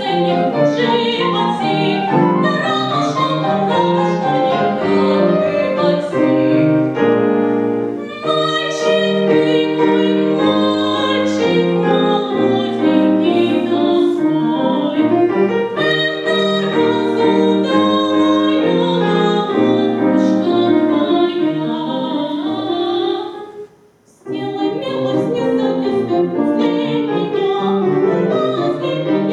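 Classical-style singing with piano accompaniment. The music pauses briefly near the end, then resumes.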